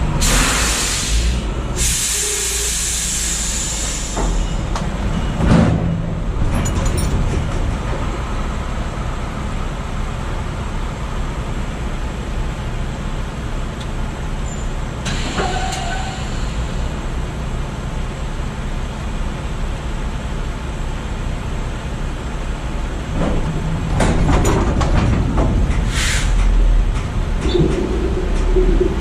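Semi-truck diesel engine running steadily, with loud air brake hisses at the start and shorter ones around the middle and near the end.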